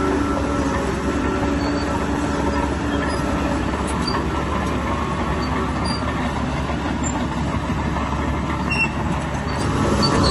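Bulldozer's diesel engine running steadily, a continuous heavy mechanical rumble.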